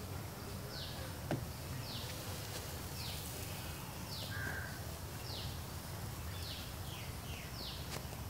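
A bird calling over and over, a short high note falling in pitch roughly once a second, over a steady low rumble; a single sharp knock about a second in.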